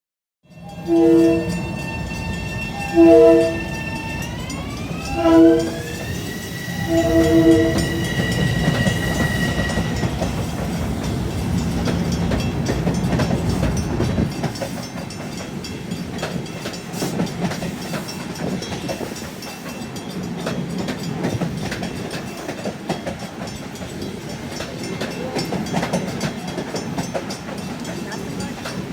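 Long Island Rail Road train sounding its horn in four blasts, long, long, short, long, the standard grade-crossing signal. A whine rises in pitch a few seconds in, and the train then rumbles and clatters past, easing off about halfway through.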